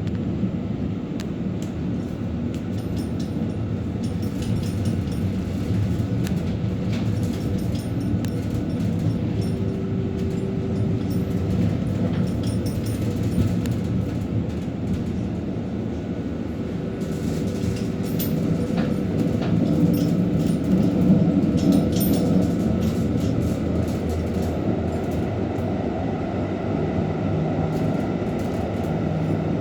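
Tram running on its rails: a continuous rumble of wheels and running gear, with a steady whine that comes and goes and scattered clicks. It grows a little louder about two-thirds of the way through.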